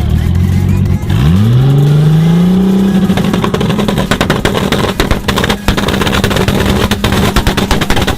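Tuned car engine revved up over about two seconds and held at high revs, its exhaust popping and banging in rapid cracks from about three seconds in: the exhaust is backfiring and shooting flames.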